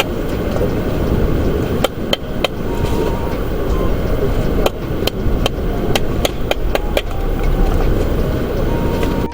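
Strong wind buffeting the microphone in a heavy, steady rumble, with about a dozen sharp knocks struck in short runs, like hammer blows.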